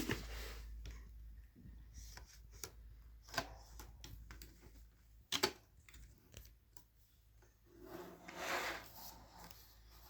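Plastic clicks and rubbing from a Lego Technic model being handled: scattered sharp clicks, the loudest about five seconds in, and a longer rustle near the end, over a low steady hum.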